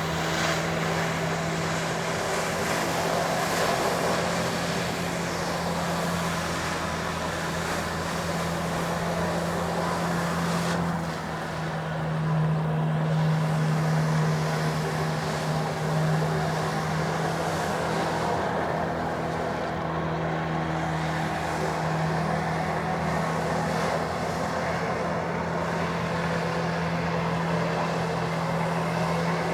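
Steady engine drone holding one low pitch over a rush of air noise, growing a little louder about twelve seconds in.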